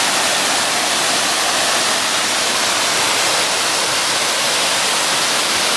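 Turner Falls waterfall: a steady, loud rush of falling water.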